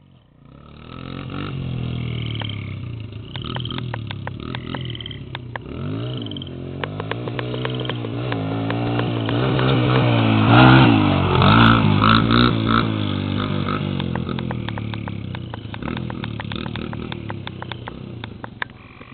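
Dirt bike engine revving up and down as the rider shifts and works the throttle. It grows louder to a peak about halfway through, then fades as the bike moves away.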